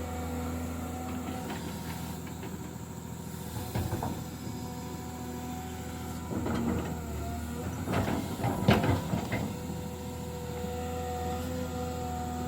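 Engine of a heavy construction machine running steadily with a constant pitch, with several knocks and clatters about four seconds in and again around eight to nine seconds, the loudest near the end.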